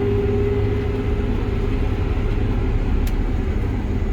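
Heavy vehicle's engine running steadily while driving, a continuous low rumble heard from inside the cab, with a steady hum that fades out about a second in.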